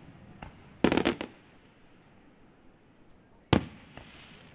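Fireworks shells bursting overhead: a quick cluster of about four bangs about a second in, then a single loud bang about three and a half seconds in, with smaller pops between.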